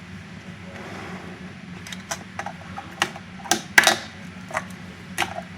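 Fingerboard with a wooden deck and Rush trucks clacking against a hard surface: a run of sharp clicks starting about two seconds in, about eight in three and a half seconds, over a steady low hum.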